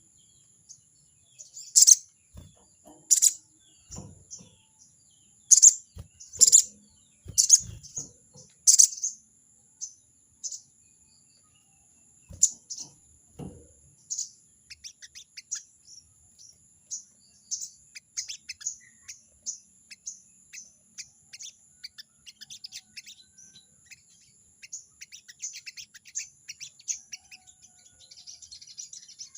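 A sogon bird giving harsh, sharp 'crecet' chatter calls, the challenging call made toward a rival: about six loud strident notes in the first nine seconds, then a long run of quicker, softer chattering notes. A few low knocks come in the first half.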